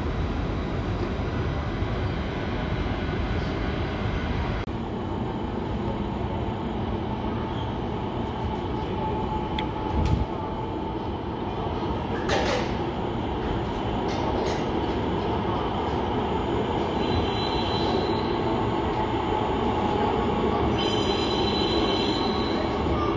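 Transperth electric trains in an underground station: a steady train rumble, then another train approaching out of the tunnel, its noise slowly building, with high-pitched wheel squeal twice in the second half.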